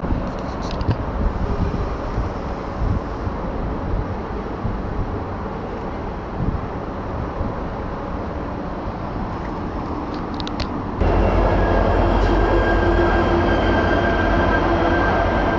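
Passenger train running, a steady rumble. About eleven seconds in, the sound turns suddenly louder, with a steady whine over the rumble.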